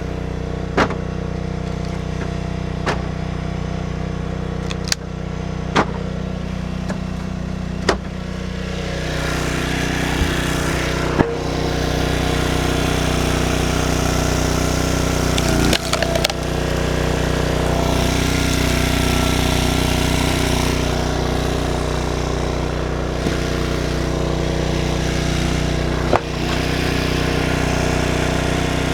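Small gasoline engine of a log splitter running steadily, with sharp cracks and snaps of wood splitting every few seconds.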